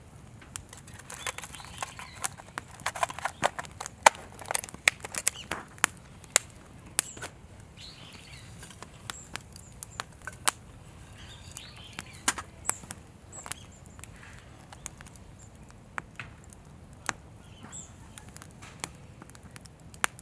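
Wood campfire crackling and popping, with irregular sharp snaps, thickest in the first six seconds and sparser after.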